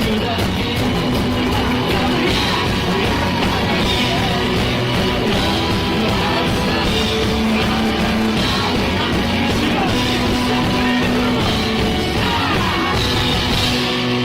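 Live rock band playing loud and steady, with shouted or sung voices over it, through a concert hall's sound system.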